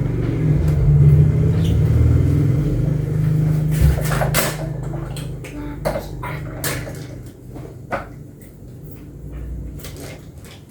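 Plastic parts of an electric fan being handled and fitted together: a low rumble of handling for the first few seconds, then scattered sharp clicks and knocks that grow sparser and quieter.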